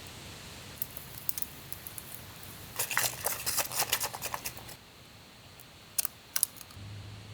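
Quick run of sharp clicks and crinkling from camping gear and tent fabric being handled, over a steady hiss, with two more clicks a couple of seconds later. A low steady hum of background music comes in near the end.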